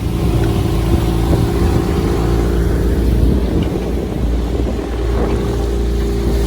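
Boat engine running steadily under way, a low hum under a constant rushing noise.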